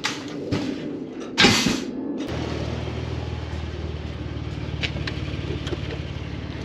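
A few knocks and a loud slam about one and a half seconds in. Then, from about two seconds in, a vehicle engine runs steadily.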